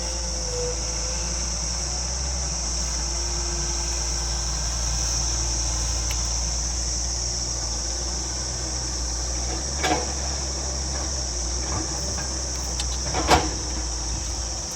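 Steady, high-pitched insect chorus over a low, steady rumble, with two sharp knocks, about ten and thirteen seconds in.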